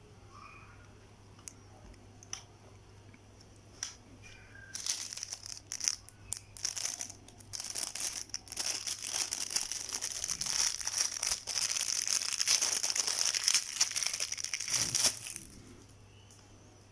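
Thin plastic food packaging being handled. A few light clicks come first, then about ten seconds of crinkling and tearing of plastic film, which stops suddenly near the end.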